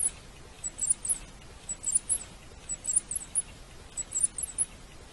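Rat squeaking: short, very high-pitched squeaks in quick groups of three or four, about one group a second.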